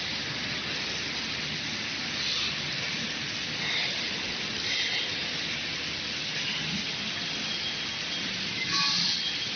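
Steady hiss with a few soft swells, the loudest about nine seconds in.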